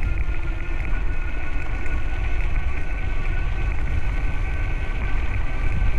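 Wind buffeting the microphone and rolling noise while riding a bicycle, a steady low rumble with a faint steady high whine over it.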